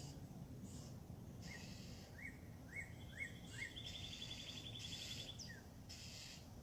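Faint wild bird calls: a run of about five short upward-sliding notes, then a fast trill starting about three seconds in, over a high hiss of more distant calls.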